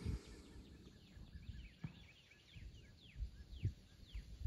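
A bird singing a series of about a dozen quick downslurred whistles, spaced further apart toward the end, with a few soft low thumps underneath.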